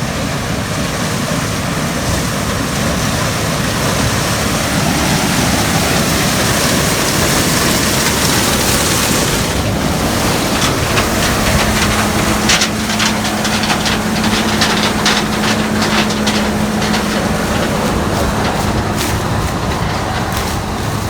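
Gleaner combine running while harvesting corn: loud, steady machine noise. About halfway through a steady hum joins in, followed by rapid rattling and clicking.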